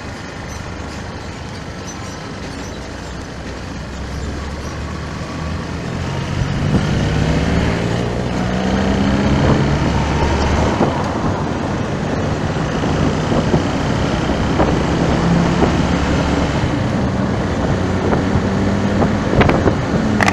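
Road vehicle engine in traffic, getting louder about five seconds in, its pitch climbing in steps as it accelerates through the gears, over steady road noise.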